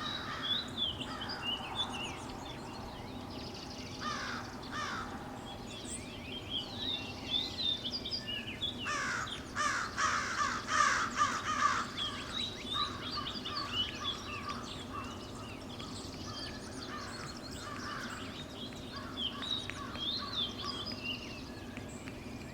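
Several wild birds calling and singing in short chirps and falling notes, with a louder, rapid run of calls about nine to twelve seconds in.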